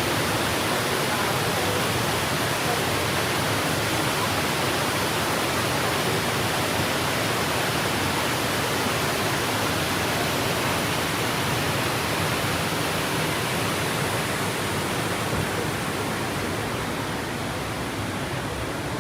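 Waterfall: a steady rush of falling water, easing a little near the end.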